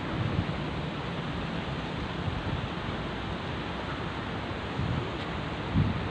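Steady rushing noise of sea surf, with wind gusting on the microphone as low rumbles.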